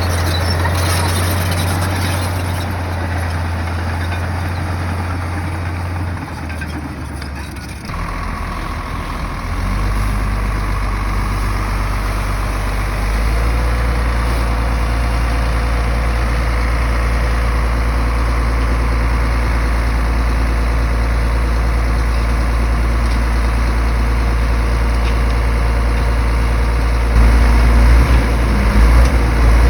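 Bulldozer's heavy diesel engine running steadily with a low drone. Its note shifts abruptly a couple of times, and it grows louder near the end.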